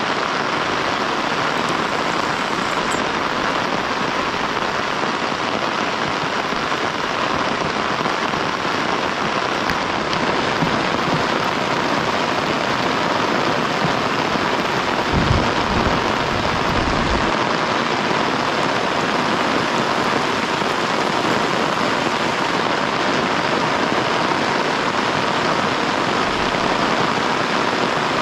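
Heavy rain falling steadily, a dense even downpour. A short low rumble comes about halfway through.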